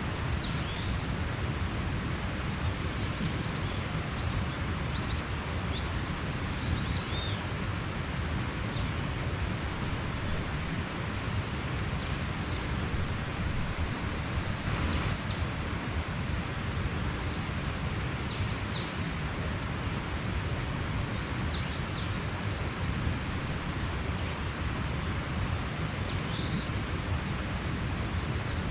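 Mountain stream running steadily, with a small bird calling short, high, chirping notes every second or two.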